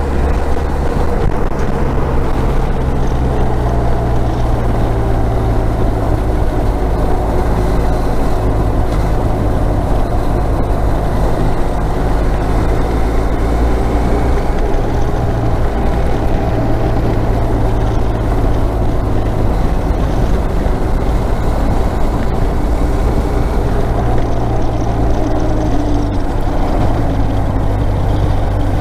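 Motorcycle engine running steadily while riding on the road, its note shifting slightly lower near the end.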